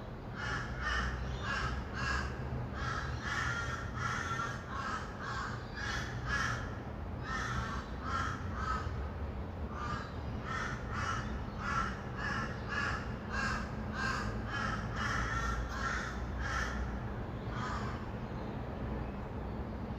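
Rainbow lorikeets giving a fast run of harsh, screeching calls, several a second, which stop near the end. Under them is a low, steady hum of distant traffic.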